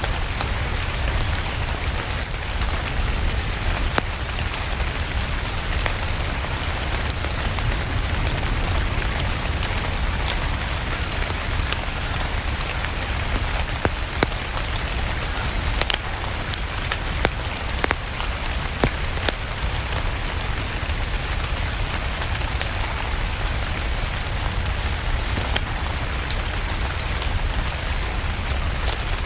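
Steady rain hissing with a deep low rumble, and scattered sharp pops and crackles from a wood fire burning in a fireplace.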